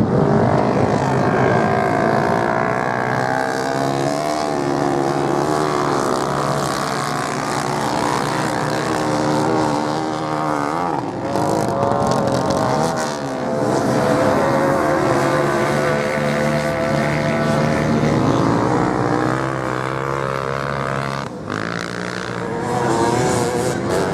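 Several racing motorcycle engines running hard at once, their pitch rising and falling as the bikes pass and change speed.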